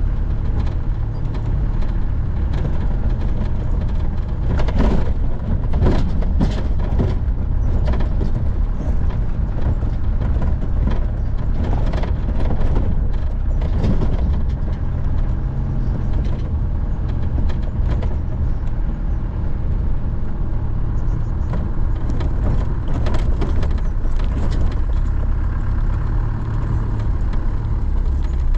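Land Rover Defender on the move: a steady low engine-and-road rumble with scattered knocks and rattles.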